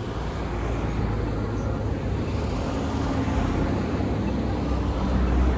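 Road traffic: a motor vehicle's engine running with a low, steady rumble that grows louder near the end as it draws closer.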